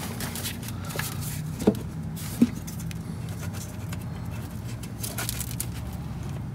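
Light clicks and rustling from hands working around an engine's wiring and plastic valve cover, with two sharp knocks about two seconds in, over a steady low hum.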